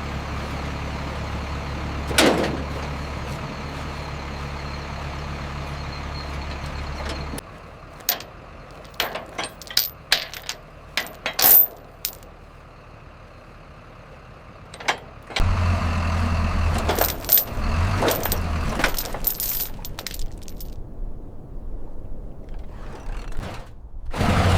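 A motor running steadily with a sharp clank about two seconds in, then a quieter stretch of scattered knocks and clinks, then a louder low engine rumble with more clatter from about the middle on.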